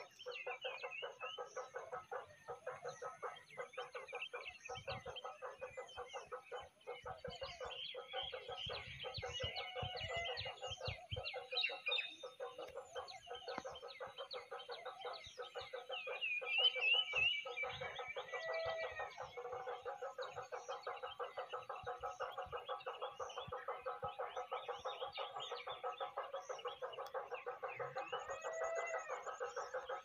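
Outdoor animal calls: a steady, rapid pulsing chorus with higher bird chirps and calls over it, loudest about halfway through.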